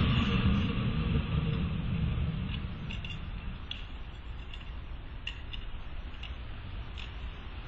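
Vehicle driving: a low engine and road rumble, louder for the first two seconds and then fading, with faint light ticks.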